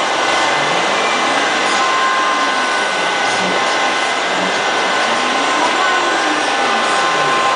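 CNC router running while carving a 3D mold: a steady spindle whine over a constant rushing noise, with a lower tone that rises and falls about once a second as the axes move back and forth.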